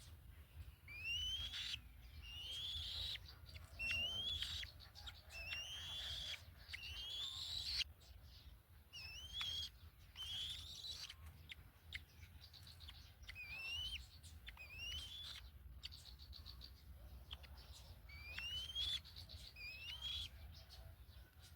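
Black-winged kites at the nest giving short, squeaky whistled calls that rise in pitch, repeated about once a second, with faint clicks between them.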